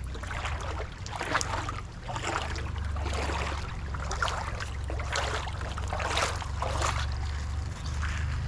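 Creek water splashing and sloshing in irregular splashes about every half second to a second, over a low steady rumble.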